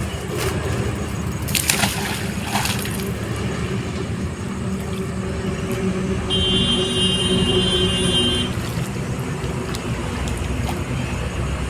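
Steady road traffic noise from a highway bridge, a continuous rumble of passing vehicles. A high steady tone sounds for about two seconds in the middle.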